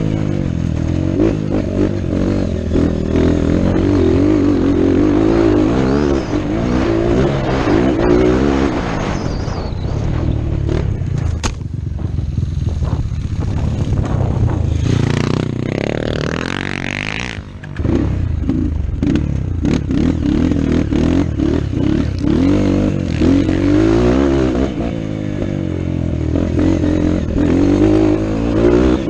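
Motocross dirt bike engine running hard, the revs climbing and falling again and again as the throttle is worked through the track. About two-thirds of the way through the revs fall away and the sound briefly dips before the engine picks back up under throttle.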